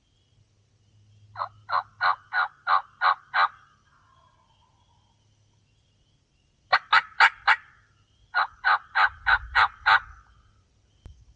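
Three runs of turkey yelps, each a string of evenly spaced notes about three a second: seven notes about a second in, a shorter and louder run of four or five past the middle, then another seven.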